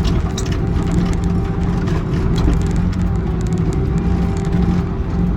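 Excavator's diesel engine running steadily under load, an even hum with a few light clicks and rattles over it.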